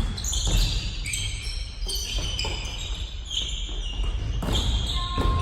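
Basketball game on an indoor court: many short, high sneaker squeaks on the floor, with several basketball bounces among them.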